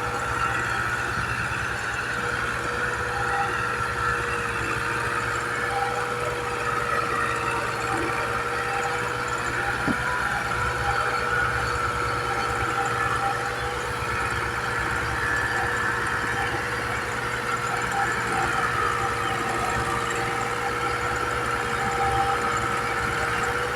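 Tractor diesel engine running steadily under the load of a heavily loaded trolley, a dense low pulsing with a steady whine over it.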